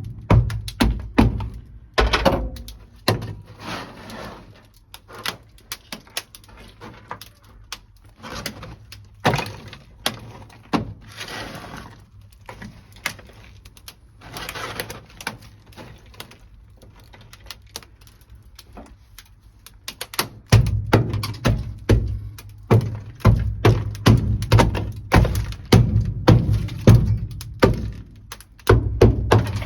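Rubber mallet knocking on sound-deadening mat made brittle with dry ice: many quick thunks against the car's floor pan, with stretches of cracking and scraping as pieces break loose.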